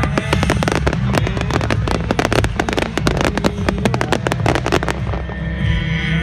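Fireworks crackling in a dense run of rapid sharp pops, over a steady low rumble; the crackle thins out after about five seconds.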